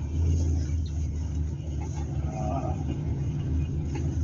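Hillman Super Minx's four-cylinder engine running at low speed, a steady low hum heard from inside the car.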